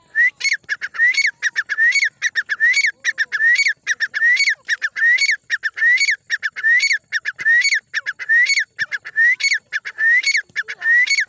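Black francolin (kala teetar) calling: a fast phrase of short clicking notes ending in a rising squeaky note, repeated over and over about every three-quarters of a second.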